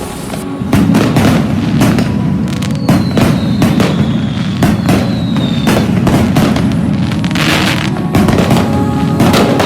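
New Year fireworks and firecrackers going off in a dense barrage: many sharp bangs over a continuous rumble. A high whistle falls slowly in pitch from about three to six seconds in.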